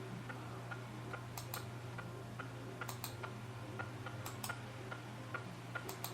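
Faint, irregular small clicks, about a dozen, some in quick pairs, over a steady low hum.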